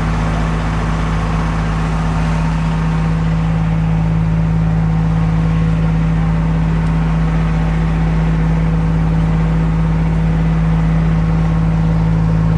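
Diesel locomotive engine idling with a steady, loud low drone that holds one pitch.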